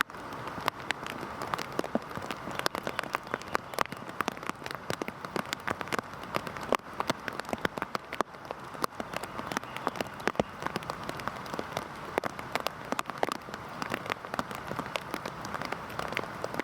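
Heavy rain falling steadily, with many close drops ticking sharply on a hard surface over a dense rain hiss.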